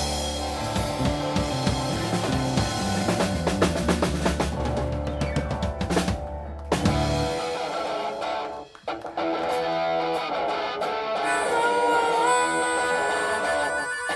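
Live rock band playing an instrumental passage on electric guitar, bass and drums. About seven seconds in the bass and drums drop out, and a guitar carries on in a thinner texture with long, bending notes.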